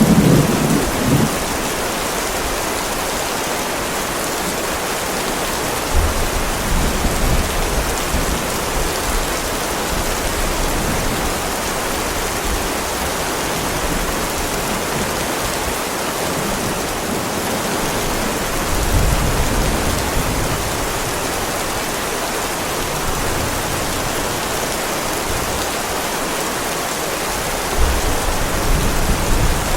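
Heavy rain falling steadily on a driveway, a dense even hiss. Low rumbles of thunder swell up a few times: right at the start, about six seconds in, around two-thirds of the way through and near the end.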